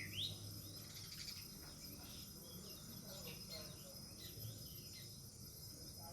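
House sparrows chirping faintly in scattered short chirps, with one quick rising chirp at the start, over a steady thin high-pitched tone.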